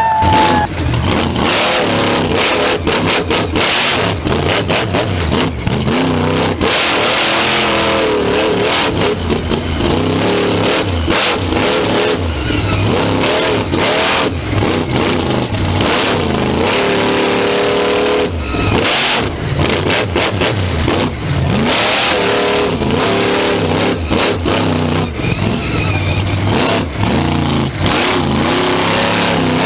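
Monster truck engine revving hard and repeatedly, its pitch climbing and falling again and again without a break, loud enough to sound harsh and distorted.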